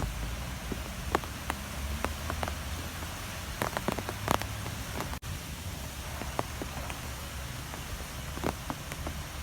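Strong wind blowing, a steady rushing with a deep low rumble, scattered with sharp ticks and taps. The sound drops out for a moment about five seconds in.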